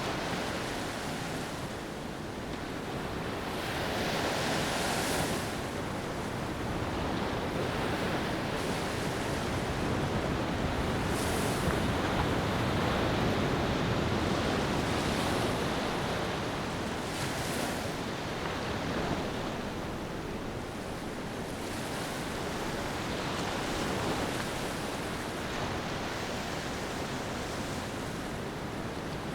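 Ocean waves breaking and washing on a beach, swelling and falling back every few seconds.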